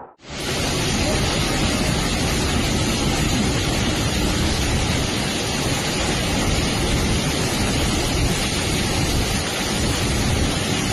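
Steady, loud rushing noise with no distinct events, starting abruptly just after a cut.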